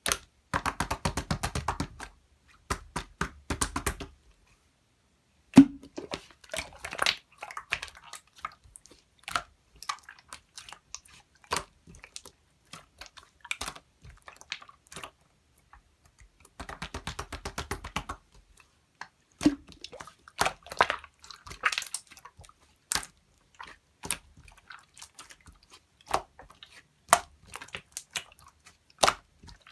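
Clear slime being squished and pressed by hand, giving runs of rapid small clicking pops with scattered single pops between them.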